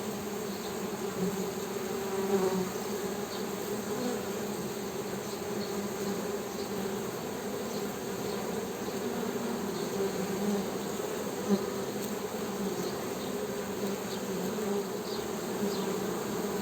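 Honey bees humming: a steady, low buzzing drone that wavers and swells slightly as the bees move about.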